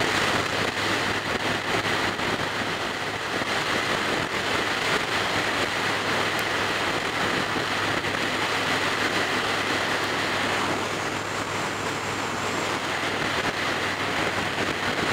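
Steady wind rush buffeting the helmet-mounted microphone while riding a Yamaha Star Raider cruiser at highway speed, with the motorcycle's engine droning underneath. The rider blames the wind noise on a helmet visor that no longer seals and lets wind leak through.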